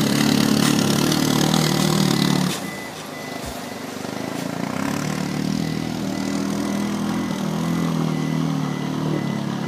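Off-road vehicle engine running steadily. It drops in loudness about two and a half seconds in, then holds at a lower, even pitch.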